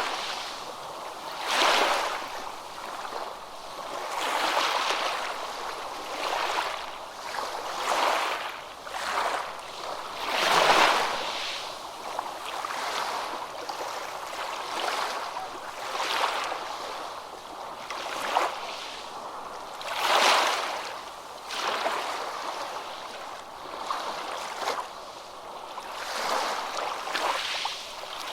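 Ocean waves washing in. The water noise swells and fades every two or three seconds, with the strongest surges about eleven and twenty seconds in.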